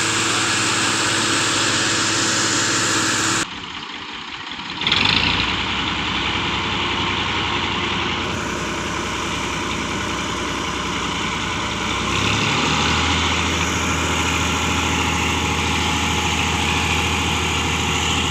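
Tractor engine running steadily. The sound drops away abruptly about three and a half seconds in, comes back louder a second and a half later, and its low note shifts about twelve seconds in.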